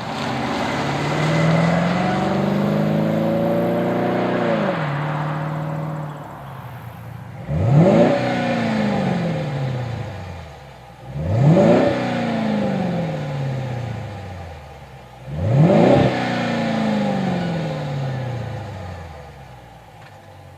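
Jeep Grand Cherokee WK2's 5.7-liter Hemi V8 running through a Flowmaster Force II cat-back exhaust with Super 50 Series mufflers. The engine climbs in pitch for about four seconds and then drops back. It is then revved three times, each rev rising sharply and dying away over a few seconds.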